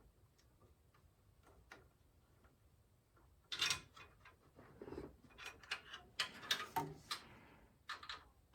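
Hands working on PC parts: faint scattered ticks, then from a few seconds in a quick run of sharp plastic and metal clicks and knocks with short rustles.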